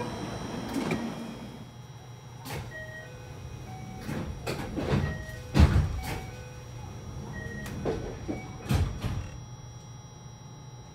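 Stationary JR West 223-2000 series electric train: a steady electrical hum with a string of clunks and thuds, the loudest a little past halfway and another pair near the end, and a few short scattered tones.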